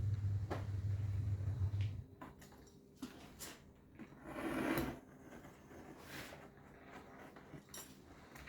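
A machine's low, steady hum cuts off about two seconds in. Scattered light clicks and knocks of handling follow, with a short rustle of material around the middle.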